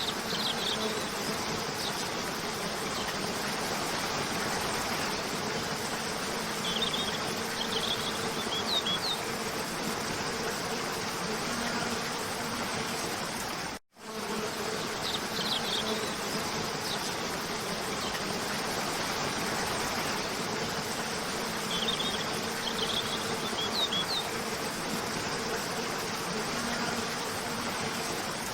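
Waterfall rushing steadily with a faint low buzzing hum, and short clusters of bird chirps twice, about 7 seconds in and again about 22 seconds in. The sound cuts out for an instant about 14 seconds in, where the recording loops back.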